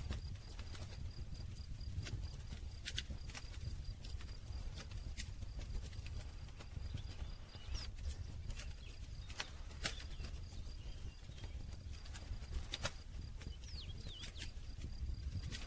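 Wood campfire crackling: irregular sharp pops and snaps over a low steady rumble of flames, with a faint high pulsing trill behind it.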